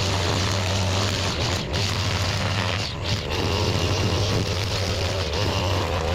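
Small gas engine of a landscaping power tool running steadily under load while clearing weeds.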